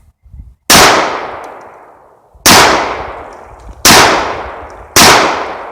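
Taurus 1911 pistol firing four slow, aimed shots about one to two seconds apart, each shot ringing off and fading before the next.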